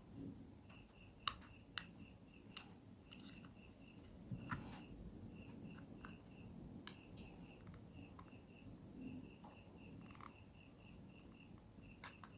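Sharp clicks and taps of small tools working on a phone's plastic housing and parts, half a dozen scattered through. Under them runs a faint, evenly repeated high chirping.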